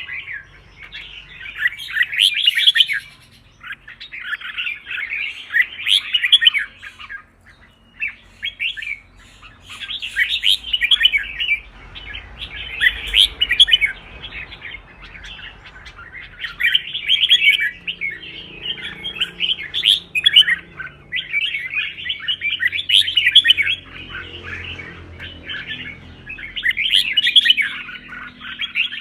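Red-whiskered bulbul in full fighting song, one chattering, warbling phrase of a second or two after another with short pauses between.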